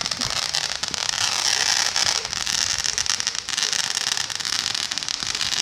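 Firework crackling: a continuous hiss thick with rapid crackles.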